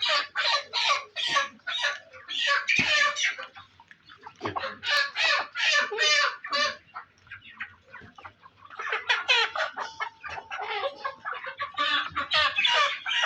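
Chickens clucking and squawking in quick, repeated calls, easing off briefly twice.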